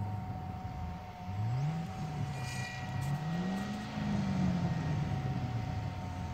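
Supercharged 5.8-litre V8 of a tuned 2014 Ford Shelby GT500 (smaller supercharger pulley, ECU tune), revving in two short climbs in pitch, then a longer rise that peaks about four seconds in and falls away slowly.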